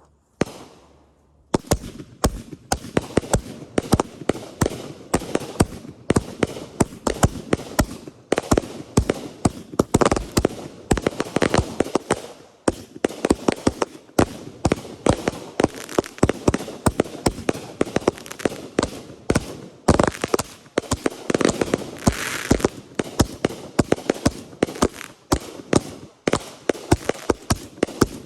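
Consumer fireworks going off: after a near-quiet second and a half, a rapid, continuous run of sharp bangs and crackles, many reports a second.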